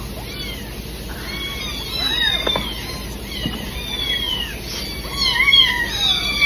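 Several cats meowing over one another, a constant overlap of short, high-pitched meows that rise and fall, growing louder a little past five seconds in.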